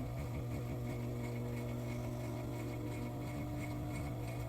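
Steady low electrical hum with a few faint steady overtones, unchanging throughout, with no stitching or other distinct events.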